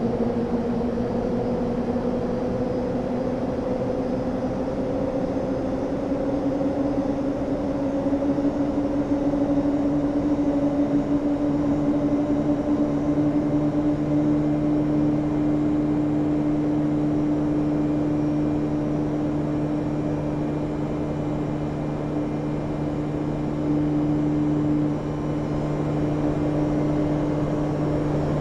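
Panasonic inverter air conditioner running with a steady mechanical hum that slowly rises in pitch over the first dozen or so seconds and then holds steady, as the inverter drive speeds the compressor up.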